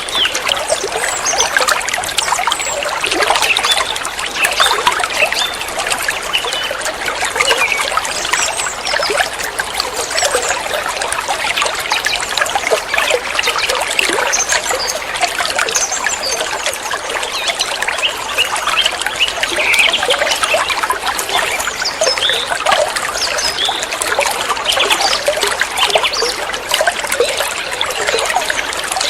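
Water trickling and splashing steadily, like a small stream or water running over rocks, with a busy bubbling texture throughout.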